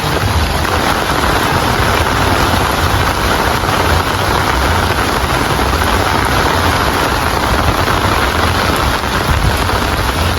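Steady rain falling, a dense, even hiss with a low rumble underneath.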